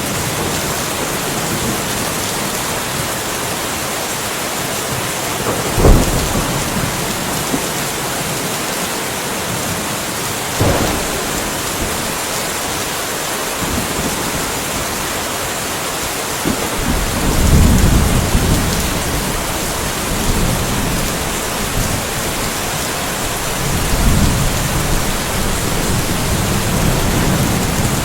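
Steady rainfall with thunder: a sharp, loud crack about six seconds in, a smaller crack a few seconds later, then low rolling rumbles through the second half.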